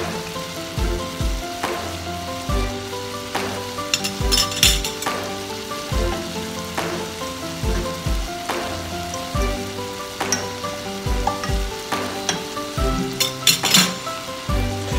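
Diced carrots, green peas and tomato sizzling in a pot over a gas flame, under background music with a steady beat. Two brief louder hissing bursts come about four seconds in and near the end.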